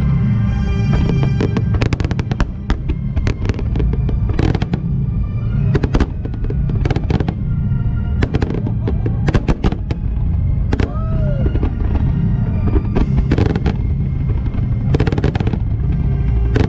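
A dense, continuous fireworks barrage with many sharp bangs in quick succession, over music with held notes and a heavy low rumble.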